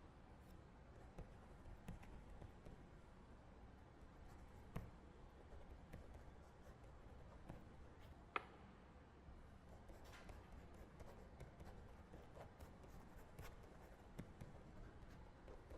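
Faint quiet-library ambience: a low steady room hum with scattered soft clicks and taps of small desk sounds, the sharpest about eight seconds in.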